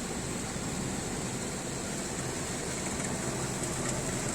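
Ryko Soft Gloss Maxx automatic car wash running steadily, its rotating wash brushes spinning with a continuous whirring hiss.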